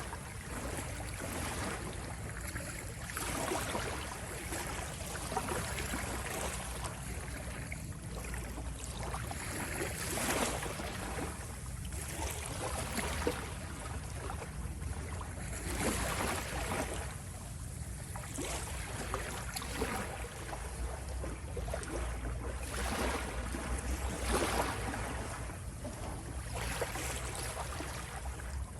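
Waves washing in, one surge of surf every two or three seconds, over a steady low rumble.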